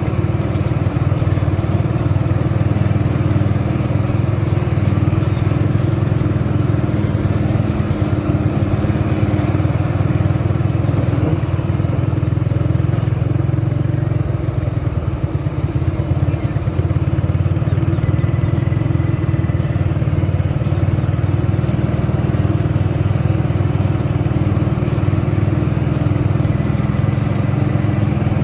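Mitsubishi 190 PS diesel truck engine running steadily while pulling an 18-ton load, with a brief easing of the sound around the middle.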